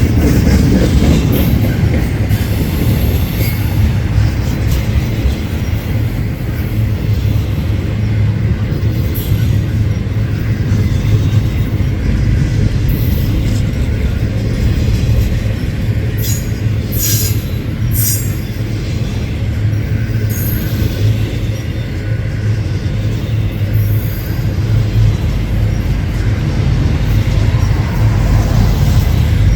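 Freight train cars rolling past with a steady, heavy rumble, and a few brief high-pitched wheel squeals a little past halfway through.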